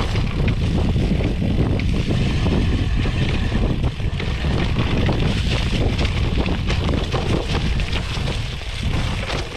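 Wind rushing over the microphone of a riding cyclist, with tyre noise and small rattles from a Canyon Inflite SL 7 cyclocross bike rolling over a gravel trail.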